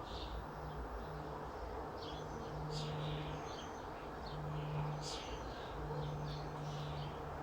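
Birds chirping: short, high calls scattered through, over a low hum that comes and goes.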